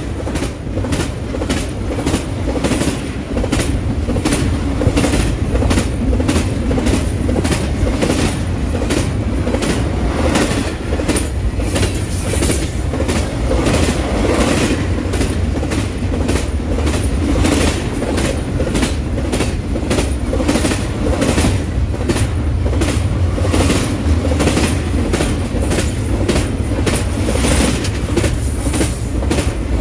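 Union Pacific freight train cars rolling past, steel wheels clicking over rail joints at about two clicks a second over a steady low rumble.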